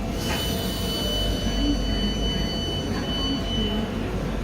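Tyne and Wear Metro train of coupled Metrocars moving through the station: a steady low rumble with a high-pitched whine held for about four seconds, which stops shortly before the end.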